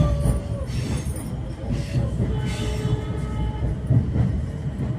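Passenger train running over the rails, heard from inside a carriage: a steady low rumble of wheels and coaches, with a few brief thin whines near the start and around the middle.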